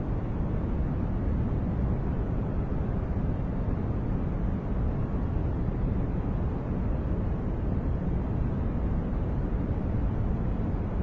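Steady, unchanging noise track of the kind played for focus and sleep, deep and muffled rather than hissy, with most of its weight in the bass. There are no tones, rhythm or separate events.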